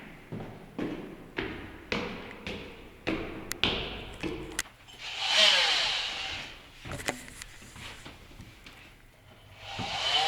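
Footsteps going down a stairwell, about two steps a second for the first four seconds or so. A drawn-out squeak with a sliding pitch follows about five seconds in, then a few sharp clicks.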